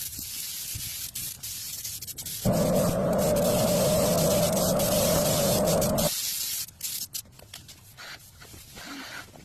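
Air spray gun hissing as clear coat lacquer is sprayed over a bumper. From about two and a half seconds in, a louder, lower droning noise with a steady tone joins the hiss for a few seconds, then both stop. Short broken bursts of hiss follow.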